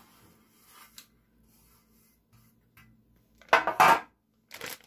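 Plastic bag crinkling as it is handled: faint rustling, then a loud burst of crinkling lasting about half a second, a little past three and a half seconds in.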